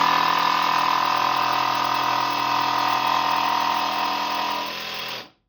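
Electric jigsaw running steadily while cutting, with a strong steady whine; it stops abruptly about five seconds in.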